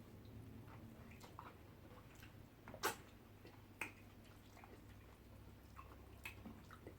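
Faint eating sounds: quiet chewing and wet mouth clicks, with two sharper clicks about three and four seconds in, over a low steady hum.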